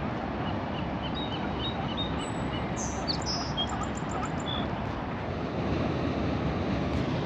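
Steady rushing of ocean surf and wind, with a run of short, high bird chirps in the first few seconds.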